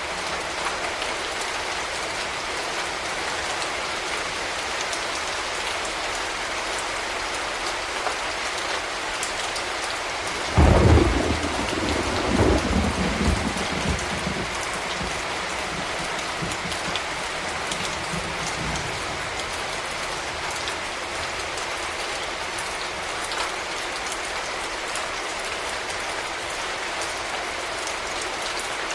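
Steady rain falling, a constant hiss. About ten seconds in, a sudden clap of thunder breaks in and rumbles away over several seconds.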